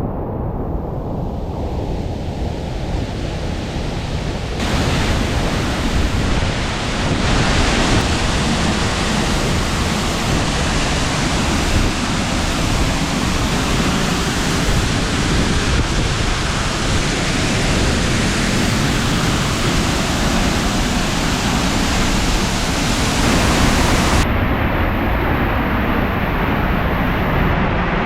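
Loud, steady rush of a waterfall in flood, heard close up. The hiss turns brighter and louder about five seconds in and eases back near the end.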